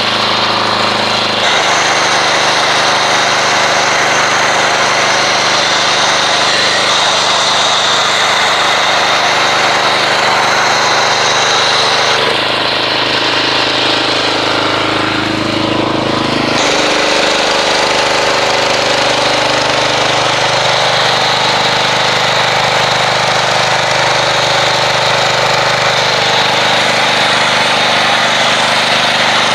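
Pressure washer running loud and steady, driving an MTM foam cannon that sprays car-wash soap foam with a continuous hiss. The machine's pitch shifts about halfway through, then settles again.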